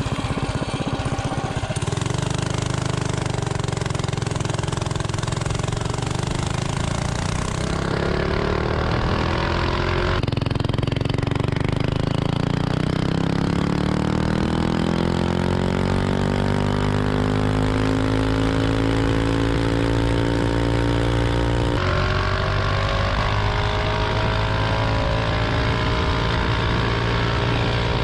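Stage 2 Predator 212 Ghost single-cylinder engine on a mini bike running hard on VP 110 race gas during a top-speed run. Its note changes suddenly about ten seconds in, then climbs steadily in pitch as the bike gathers speed, and holds high near the end.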